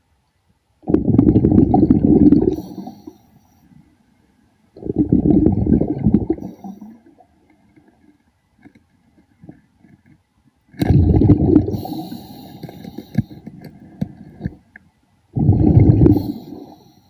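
A diver's exhaled breath bubbling out of the breathing regulator underwater, four times, each burst lasting under two seconds with faint clicks in between.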